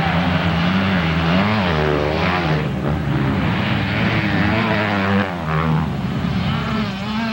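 Several motocross bikes running on the track, a steady engine drone with the pitch rising and falling as riders rev and shift.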